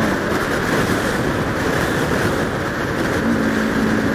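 Motorcycle being ridden, heard through a helmet-camera microphone: heavy wind rush over the engine's drone. About three seconds in, the engine settles into a steady hum.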